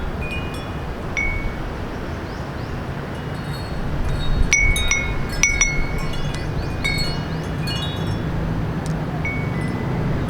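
Small metal wind chime ringing in the breeze: scattered clear, high notes, a flurry of strikes near the middle, over a steady low hum of city traffic.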